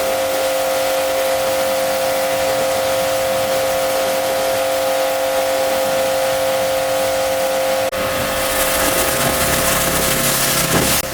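A cleaning machine's motor running with a steady whine over a hiss. About eight seconds in the sound changes abruptly, with more hiss and a low hum added.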